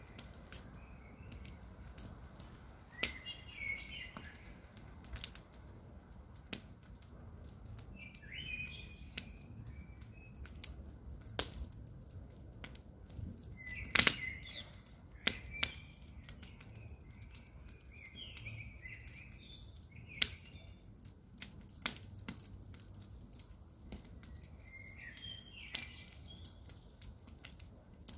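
Campfire crackling: irregular sharp pops and snaps of burning wood over a low steady rumble, the loudest pop about halfway through. Short bird chirps come in the background every few seconds.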